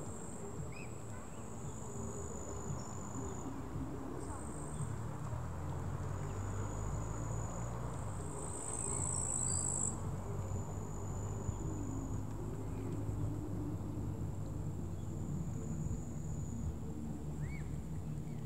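Insects trilling high and thin, in stretches of a second or a few seconds that start and stop, over a steady low rumble.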